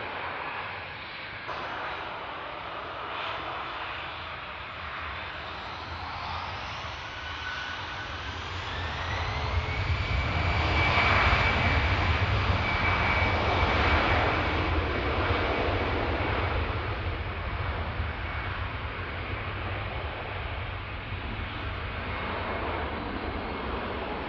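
Airbus A319 jet engines spooling up to takeoff power: a whine rising in pitch about a third of the way in, then holding steady while the engine noise grows loudest and eases off a little toward the end.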